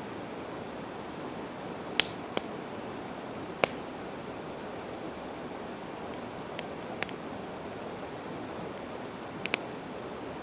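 Campfire of split evergreen wood crackling, with a handful of sharp pops, the loudest about two seconds in. The steady rush of a river runs underneath. From about three seconds in, a cricket chirps in an even high pulse, about two or three chirps a second.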